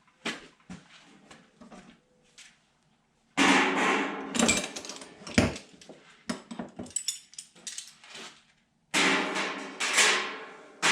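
Metal hand tools clattering and knocking as they are gathered up and set down, in several bursts with a ringing rattle, the loudest starting about three and a half seconds in and again near the end.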